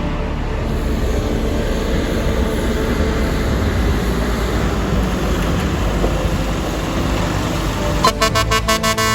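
Truck going by with steady engine and road noise. About eight seconds in, its horn sounds in a rapid string of short toots.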